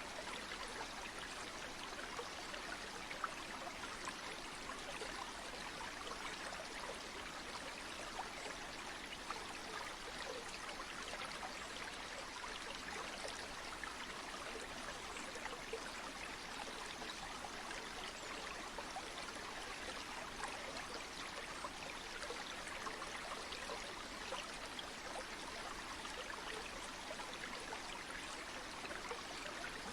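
Flowing river water: a steady, even rush of stream noise with fine trickling texture and a few brief ticks.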